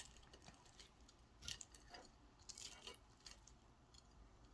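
Near silence with a few faint clicks and rustles of small objects being handled, clustered about one and a half seconds in and again around two and a half to three seconds in.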